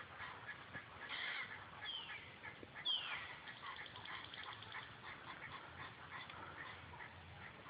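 High animal calls: many short chirps throughout, and two clear whistles that slide downward about two and three seconds in, the second one loudest.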